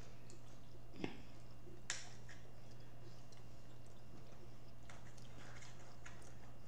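Close-miked chewing and mouth sounds of someone eating, with two sharp clicks about one and two seconds in, over a steady low hum.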